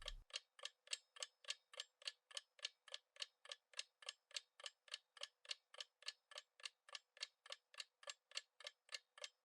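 Clock-tick sound effect counting down the time to answer a quiz question: faint, even ticks at about three a second.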